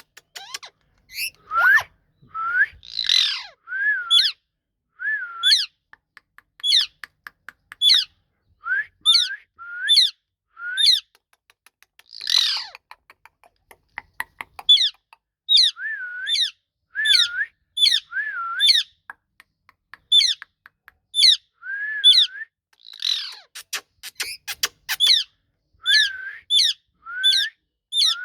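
Indian ringneck parrot calling: short curved whistles repeated about once a second, broken by a few harsher squawks and several runs of rapid clicks.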